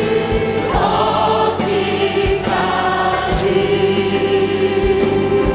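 A choir and congregation singing a hymn with instrumental accompaniment, holding long notes with vibrato over a steady beat.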